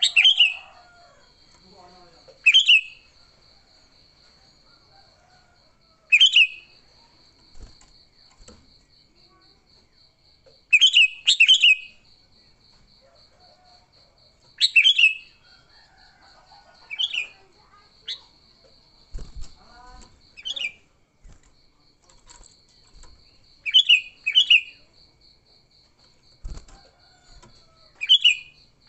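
Sooty-headed bulbul giving short, sharp, loud calls every few seconds, some in quick pairs: the agitated fighting calls of a challenging bird. A faint, steady, pulsing high trill runs underneath.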